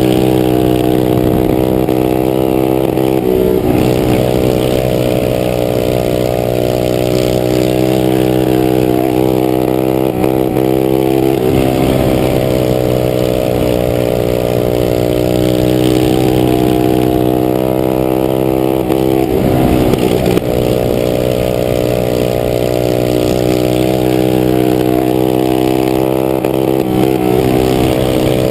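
Several small minibike engines running flat out in a race. Their pitch dips and climbs back about every eight seconds.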